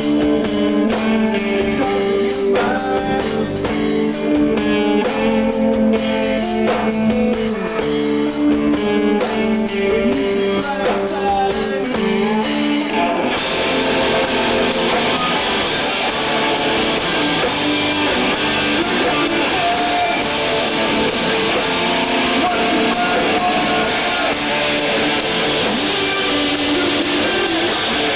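Live emo band playing loud, with electric guitar and drum kit: held, ringing guitar notes over the drums, then about halfway through the band breaks into a denser, heavier section.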